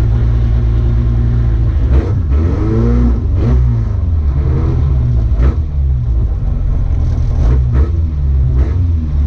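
Rally car engine being driven hard, its pitch climbing and dropping several times as it revs and changes gear, with a few sharp knocks along the way.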